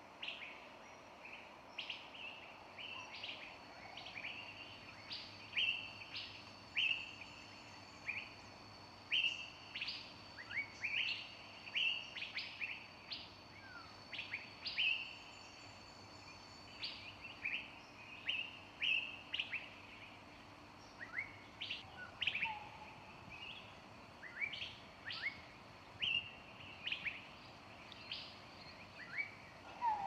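Birds chirping: many short, sharp calls, one to three a second, over a faint steady high-pitched whine.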